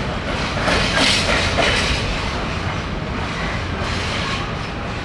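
Freightliner coal hopper wagons rolling past, their wheels clattering over rail joints in a cluster of clacks about a second in. The rumble slowly gets quieter toward the end.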